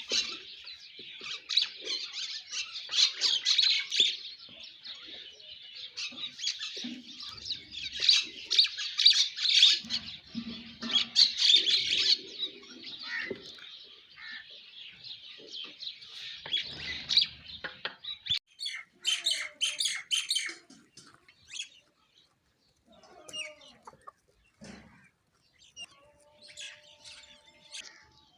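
A flock of sparrows chirping, many overlapping calls in a dense chatter that thins out after about 18 seconds into scattered separate chirps with short pauses.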